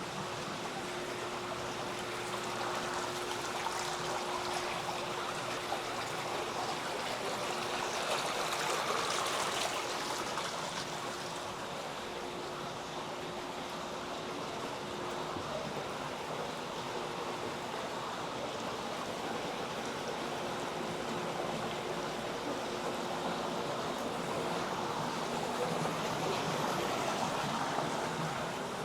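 Steady rush of running water that swells twice as it is passed, with a faint steady hum underneath.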